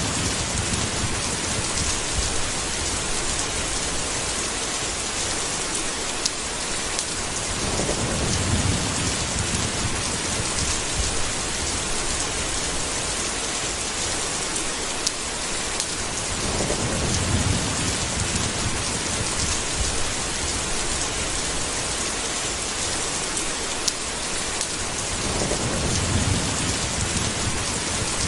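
Steady heavy rain with low thunder rumbles swelling and fading about every eight or nine seconds, four times in all.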